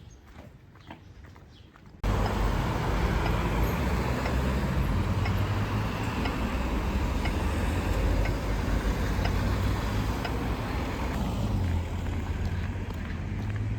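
Quiet street sound with faint clicks, then, about two seconds in, an abrupt cut to loud road traffic: a motor vehicle's engine running close by with a steady low hum over street noise.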